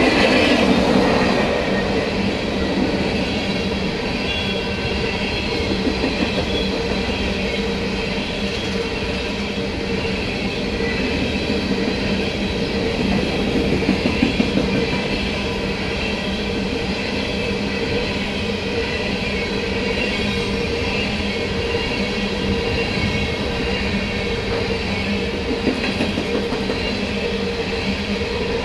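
BNSF coal train's cars rolling past, a steady, continuous rumble of steel wheels on rail. Short runs of clacks rise out of it about six seconds in and again near the middle.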